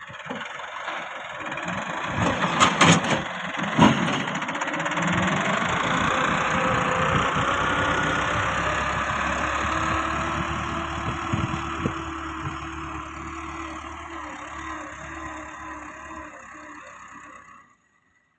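Tractor diesel engine running, with a few sharp knocks between two and four seconds in; the engine sound grows louder and then slowly fades before cutting off abruptly near the end.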